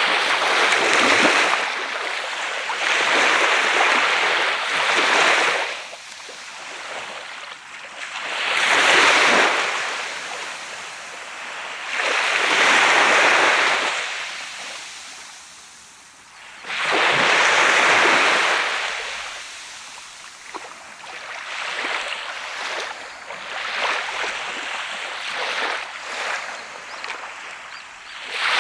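Sea waves breaking and washing up a sand beach, surging and falling away every few seconds; the biggest breakers come in the first two-thirds, with smaller washes near the end.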